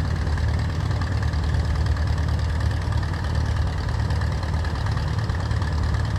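Old Allis-Chalmers farm tractor engine running steadily at low speed, a constant low rumble.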